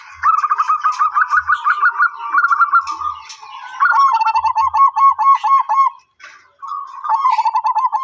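Zebra dove (perkutut) cooing: long runs of rapid, evenly repeated short notes, with a short pause about six seconds in before the next phrase.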